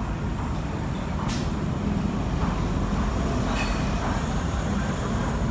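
Steady low rumble of passing highway traffic, with a couple of faint clicks.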